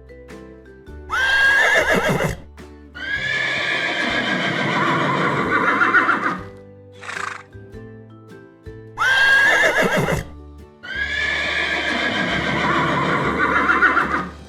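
A horse whinnying, the same call played twice: a short, sharply rising high call followed by a long, quavering neigh. Background music plays underneath.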